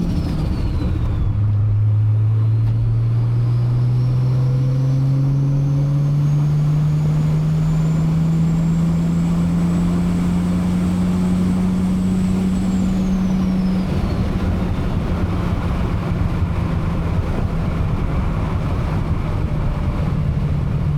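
Toyota Supra MK4's big-turbo 2JZ-GTE straight-six pulling through a gear. After an upshift about a second in, the engine note climbs slowly for about twelve seconds while a thin high whine rises with it. Near the end the throttle closes and a steady road and drivetrain rush remains.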